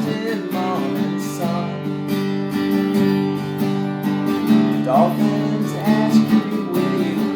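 Acoustic guitar strumming a blues accompaniment in an instrumental break, with a few short bent notes above the chords.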